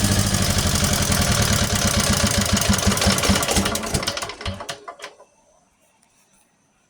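Generator engine being shut off: it runs steadily, then its firing strokes slow and fade, and it coasts to a stop about five seconds in.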